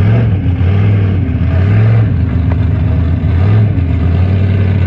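Mud truck's engine revving up and down several times over a loud, steady engine rumble.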